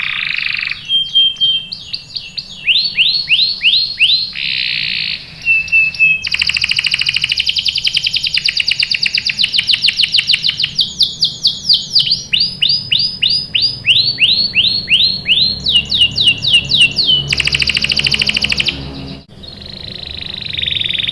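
Canary in full song: rapid strings of repeated high chirps, fast trills and long rolling phrases following one another with hardly a pause, with a brief break near the end.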